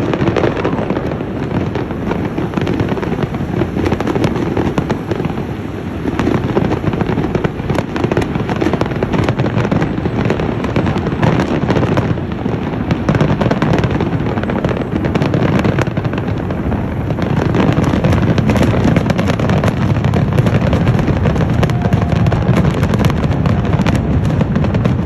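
Fireworks display going off in a dense, continuous barrage, many shells bursting and crackling over one another with no break. It grows louder about two-thirds of the way through.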